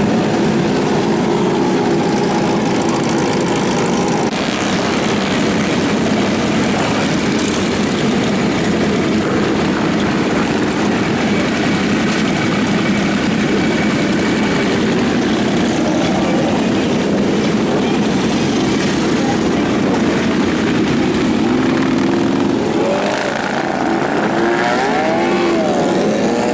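Motorcycle engines running together in a steady, dense drone, with engines revving up and down near the end.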